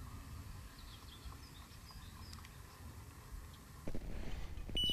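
Faint bird chirps over a low outdoor rumble; from about four seconds in, a few knocks of handling noise and a short high beep right at the end.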